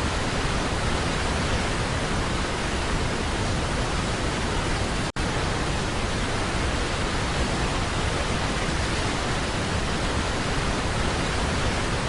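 Steady rushing roar of Niagara Falls up close from the tour boat, an even wash of noise that cuts out for an instant about five seconds in.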